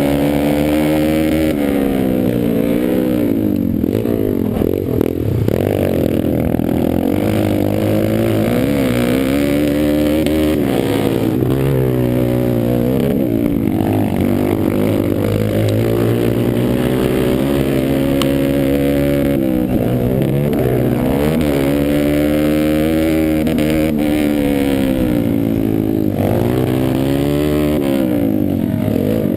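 Pit bike engine running hard, its pitch climbing and dropping over and over as the rider opens the throttle, shifts and backs off through the turns.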